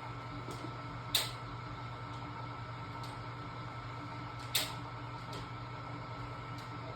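Steady machine hum with two sharp clicks, one about a second in and one past the middle, and a few fainter ticks.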